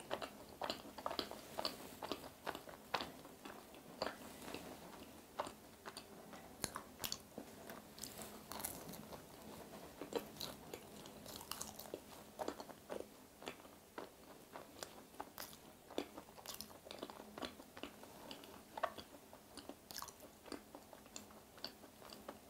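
A person biting and chewing an ang-butter macaron, its shells filled with butter and red bean paste: a steady run of small, faint mouth clicks and crackles.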